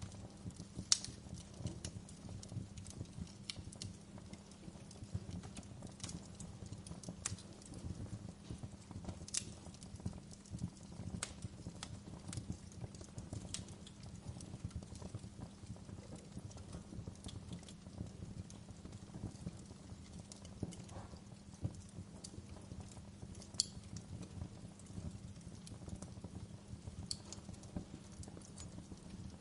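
Wood fire crackling: irregular sharp pops and snaps over a steady low rumble, with a louder pop about a second in and another about 24 seconds in.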